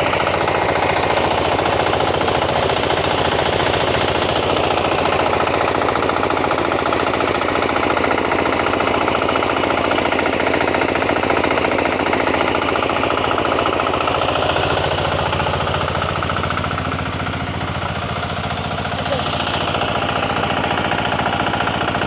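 Small engine-driven rice thresher running steadily: the engine fires in a fast, even knock under the whirr of the threshing drum and fan. It eases slightly about two-thirds of the way through.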